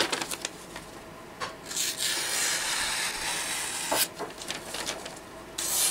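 EsKabar knife blade slicing through a sheet of paper: light clicks, then a steady rasping cut of about two seconds, more clicks, and a second cut starting near the end. This is a paper-slicing test of edge retention; the edge cuts cleanly after use.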